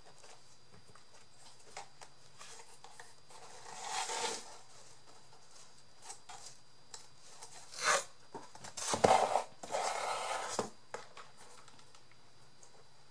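Small rustling, scraping and clattering sounds of craft materials and tools being handled on a work surface, in a few short bursts, the loudest about nine to ten and a half seconds in.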